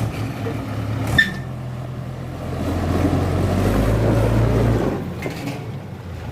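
Mahindra 475 DI tractor's diesel engine running, growing louder from about two seconds in and easing back shortly before the end, with a single sharp click about a second in.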